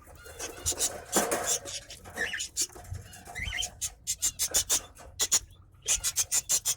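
Caged small parrots chattering in quick, sharp chirps and clicks, with a dense burst of clicks near the end.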